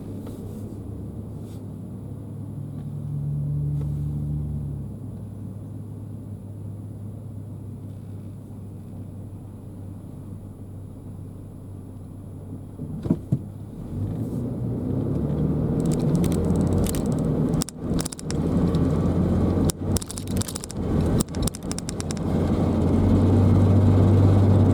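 A car driving, with a steady low rumble of road and engine. About two-thirds of the way in, the rumble grows louder and a rapid crackling rattle comes and goes over it.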